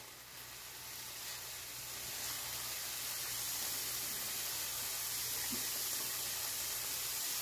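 Sliced sausage and zucchini noodles sizzling in a hot frying pan: a steady hiss that builds over the first couple of seconds and then holds.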